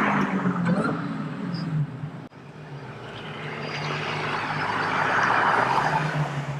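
Dodge Charger Hellcat's supercharged 6.2-litre Hemi V8 running with its rear mufflers deleted, the exhaust loud and open. After a sudden break about two seconds in, the sound swells up to a peak and eases off near the end.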